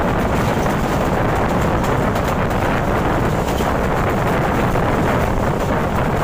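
Passenger train running at high speed, heard from an open coach window: a steady rush of air and rolling noise, with wind buffeting the microphone.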